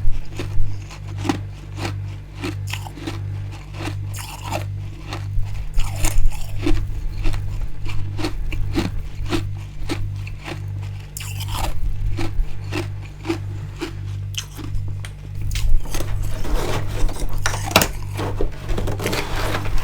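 Built-up freezer frost being bitten and chewed close to the microphone: a dense run of sharp, crisp crunches. A low hum pulses evenly underneath.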